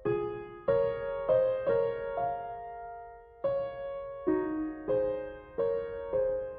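Gentle background piano music: soft chords struck one after another, each ringing out and fading, with a short lull about three seconds in.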